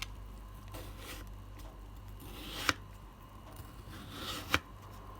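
A kitchen knife slicing thin slits into a raw potato: soft cutting strokes, two of them ending in a sharp click, about two seconds apart, as the blade comes down against the wooden spoon used as a stop.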